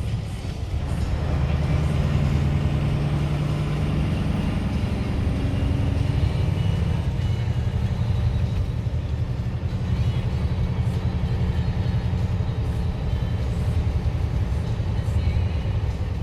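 Scania LBS 141's 14-litre DS14 turbocharged V8 diesel running under load on the road, heard from inside the cab. It eases briefly about half a second in, then pulls steadily again.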